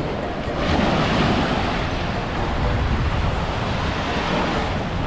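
Surf washing onto the beach, swelling louder just under a second in, with wind rumbling on the microphone.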